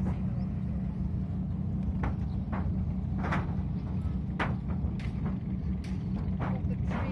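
A boat's engine running steadily with a loud low drone, with scattered short clicks or knocks over it.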